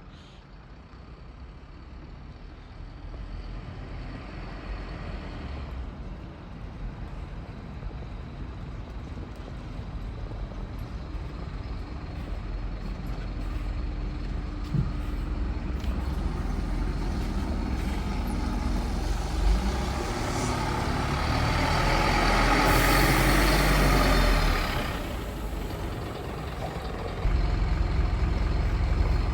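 Scania N230UD Omnicity double-decker bus running, its diesel engine rumble growing louder as it draws near. About 20 to 25 seconds in the rumble and a rush of higher noise peak, then die away. Near the end the engine sound steps up again.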